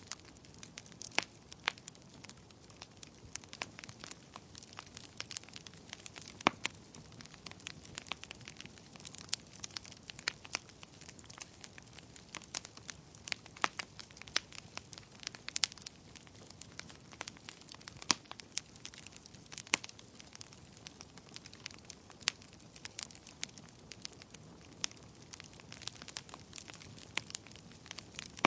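Wood fire burning in a fireplace: logs crackling, with irregular sharp pops over a soft steady hiss.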